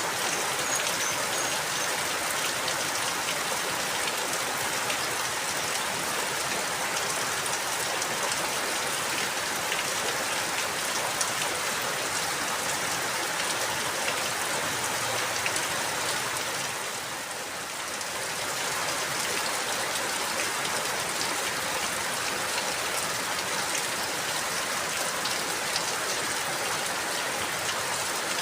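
Steady rain falling, an even hiss of drops, easing briefly about two-thirds of the way through before picking up again.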